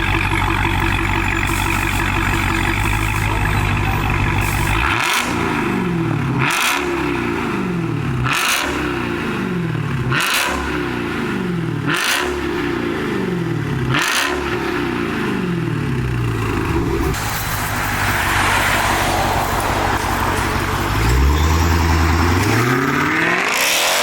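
Straight-piped 2019 Dodge Charger Hellcat's supercharged 6.2-litre Hemi V8, with the mid and rear mufflers deleted, idling loud and steady after start-up. From about five seconds in it is blipped about six times, roughly every two seconds, each rev rising sharply and falling back to idle. It settles to idle again and is revved twice more near the end.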